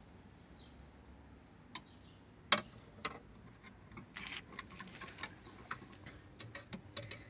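Scattered light clicks and taps, irregularly spaced, from a refrigerator thermostat and its wire connectors being handled during fitting, with a short rustle about four seconds in.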